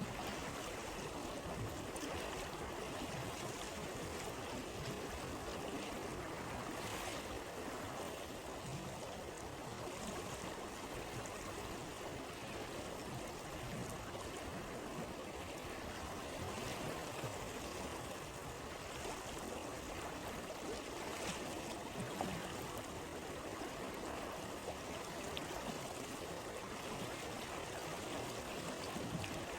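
Steady rushing and babbling of a flowing stream, with a few faint crackles from a campfire.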